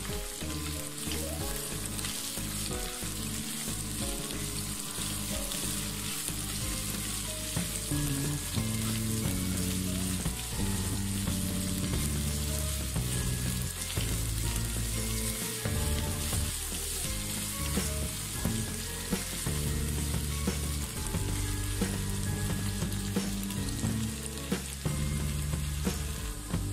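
Diced chicken and vegetables (carrot, capsicum, green chilli) frying in a pan with a steady sizzle. Background music with low held notes plays underneath.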